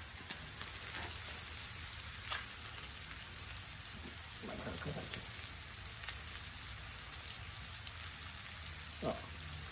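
Meat sizzling and crackling in a wok over a propane burner, a steady hiss full of fine pops, with a steady low hum underneath.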